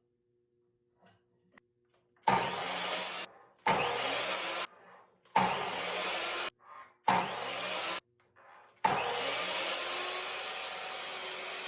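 Electric miter saw cutting 2x4 lumber to length: five short bursts of blade-through-wood noise that start and stop sharply. The last runs longer and winds down with a falling whine as the blade coasts to a stop.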